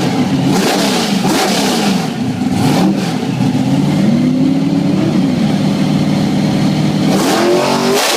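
Drag car engine revving: the pitch climbs and drops several times, holds steady for a few seconds, then climbs again near the end.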